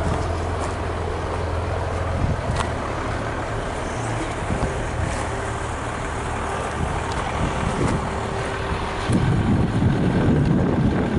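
Motor vehicle engine running steadily, getting louder and rougher about nine seconds in.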